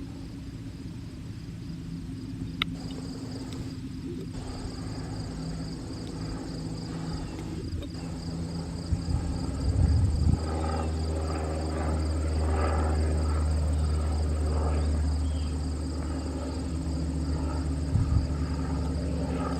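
Insects chirping in an even, rapid pulse. From about halfway through, a steady low rumble with a hum in it comes in and stays.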